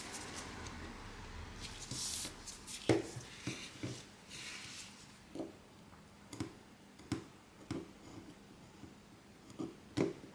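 Small hand tools and phone parts handled during a smartphone repair: a couple of brief scrapes, then a series of sharp clicks and taps about a second apart, the loudest near the end.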